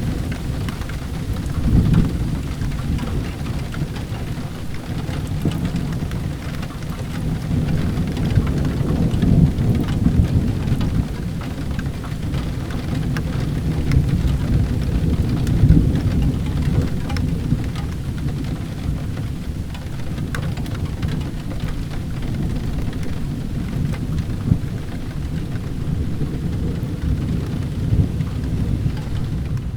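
Steady heavy rain with low rolling thunder that swells louder a few times.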